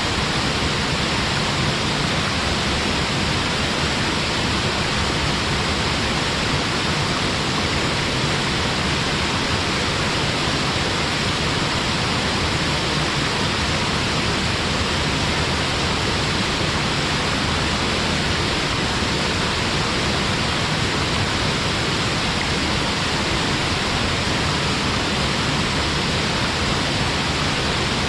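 Waterfall splashing steadily into its pool, a constant even rush with no change.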